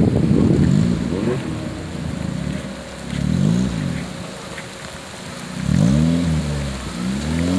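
Off-road 4x4's engine running loud as it pulls away through mud, then revved up and down several times, its pitch rising and falling with each blip of the throttle.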